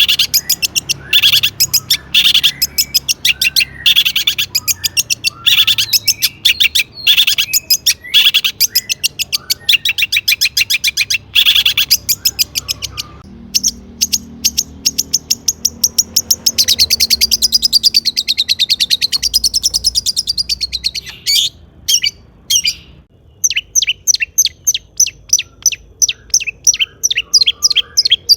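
Long-tailed shrike (cendet) singing hard: rapid, harsh chattering phrases full of mimicked calls, a wavering warble partway through, then fast runs of ticks near the end.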